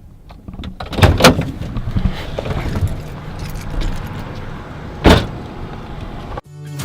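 Car sounds: a couple of loud knocks about a second in, then a steady low rumble, and a single heavy thud about five seconds in like a car door being shut. The sound cuts off abruptly near the end.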